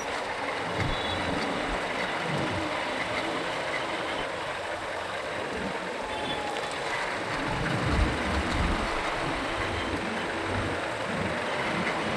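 Traffic and road noise heard from a moving motorcycle in city traffic, with wind rumbling on the microphone in uneven gusts, the strongest about eight seconds in.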